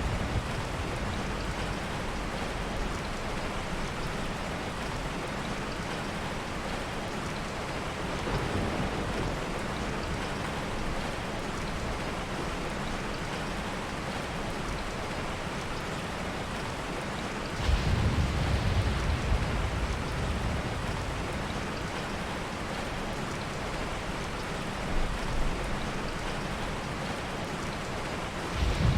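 Steady heavy rain, with low rolls of thunder coming and going; the strongest roll lasts about two seconds, a little over halfway through.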